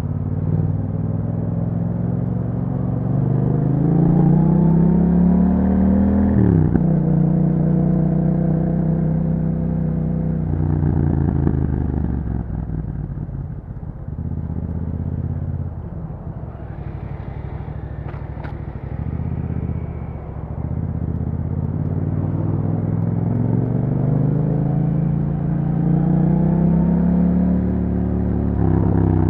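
A Yamaha MT-07's 689 cc parallel-twin engine, breathing through an Akrapovic exhaust, is ridden on the road. The revs climb steadily, then drop suddenly about six and a half seconds in at a gear change. The engine runs at lower, varying revs for a while before pulling up through the revs again near the end.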